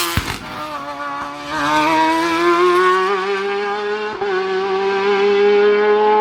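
Race car engine under hard acceleration, its pitch climbing steadily with brief drops at gear changes just after the start and about four seconds in.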